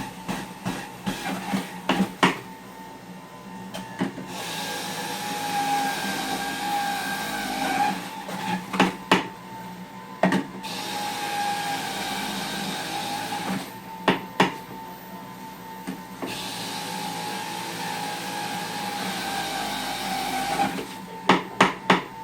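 Blender motor running in several stretches of a few seconds each, with a steady whine, as it blends pineapple and ginger for juice. Between the runs come sharp knocks.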